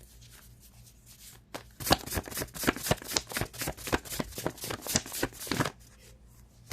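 A deck of reading cards being shuffled by hand: a quick run of card flicks and slaps that starts about a second and a half in and stops shortly before the end.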